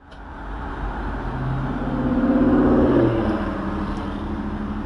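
Car engine idling with the car stopped, under a louder engine tone from passing traffic that swells and drops in pitch about three seconds in.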